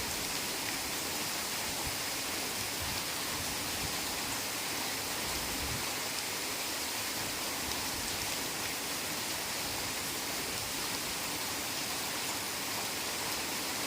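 Heavy rain falling in a forest, a steady, even hiss, with a few soft low knocks about three and six seconds in.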